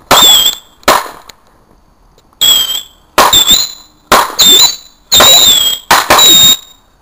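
Fireworks going off in a rapid string of about eight loud bangs and fizzes, several with a shrill, wavering whistle.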